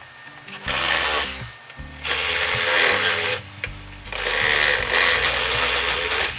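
Electric chainsaw running in three bursts, the last two longer, as it cuts through bamboo, over steady background music.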